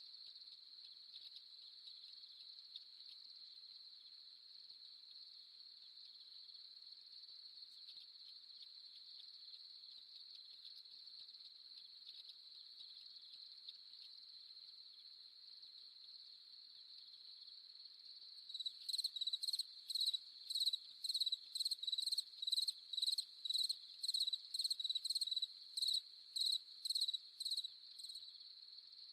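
A steady, high-pitched cricket chorus. About two-thirds of the way in, a louder, closer cricket starts chirping in a regular rhythm of about two chirps a second for roughly ten seconds, then stops.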